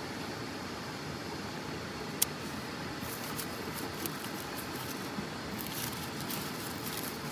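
Dry leaves crackling and rustling in irregular short snaps from about three seconds in, after a single sharp click about two seconds in, over a steady low rushing noise.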